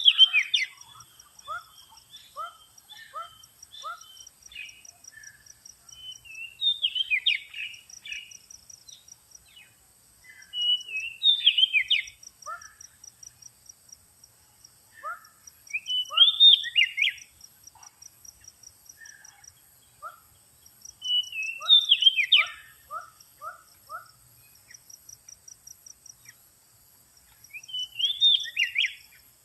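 Oriental magpie-robin (kacer) singing: six loud whistled phrases about every five seconds, with runs of short quieter notes between them. A fast, even, high insect trill runs underneath.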